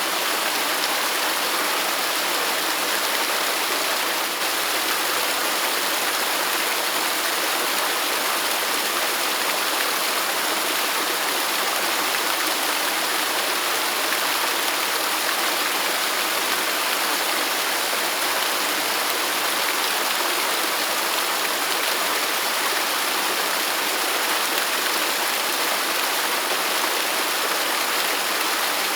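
Waterfall rushing steadily: an even hiss of falling water, mostly in the upper range, with little low rumble and no change in level.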